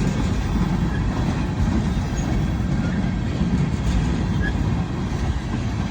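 Train rolling past, a steady low rumble of wheels on the rails.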